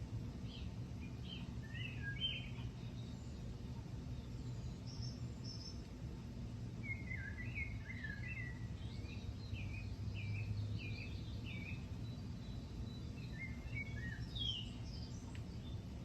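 Songbirds chirping and singing in short phrases, with a run of quickly repeated down-slurred notes about midway and more calls near the end, over a steady low background rumble.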